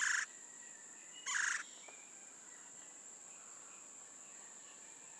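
Outdoor ambience: a steady high-pitched insect drone, with two short bird calls near the start, about a second and a half apart.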